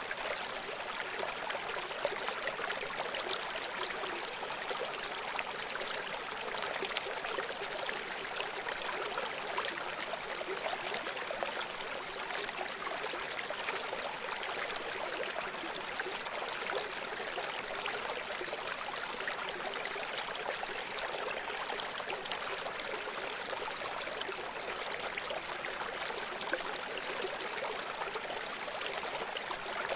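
A running stream: water flowing and splashing over rocks in a steady, even rush with fine bubbling and trickling detail.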